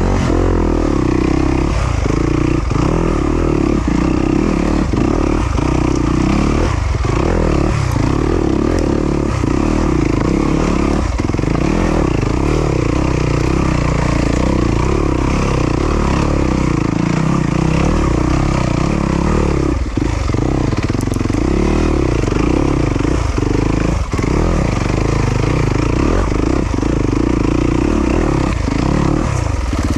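Yamaha YZ250FX dirt bike's 250 cc four-stroke single-cylinder engine running hard, its revs rising and falling with many quick throttle drops.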